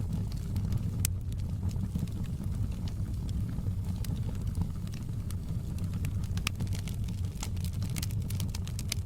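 Wood fire crackling in a fireplace: irregular sharp pops and snaps over a steady low rumble, coming more often near the end.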